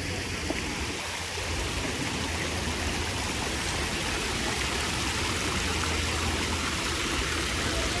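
Steady rush of falling water from a fountain or waterfall, growing slightly louder about a second and a half in.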